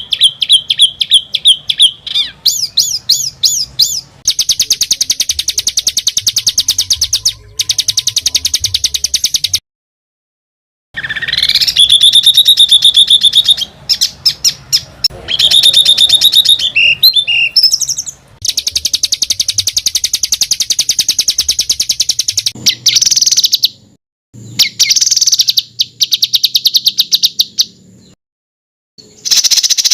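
Edited songbird masteran (training song) recording: loud, harsh, very fast rattling trills and rapidly repeated chirps, with a rising whistled glide about eleven seconds in. The phrases are separated by sudden silent cuts.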